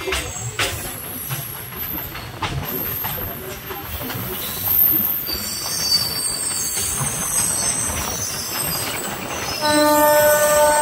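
A MEMU electric train running on the rails, with wheels knocking over rail joints, then high-pitched wheel squeal from about halfway. Near the end a train horn starts and holds a steady note, the loudest sound.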